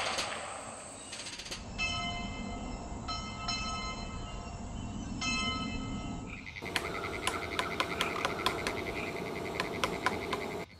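The echo of a cannon or musket volley dies away. Then a train horn sounds a steady chord of several tones in blasts for a few seconds. From about six and a half seconds a chorus of frogs trills, with many sharp clicking calls.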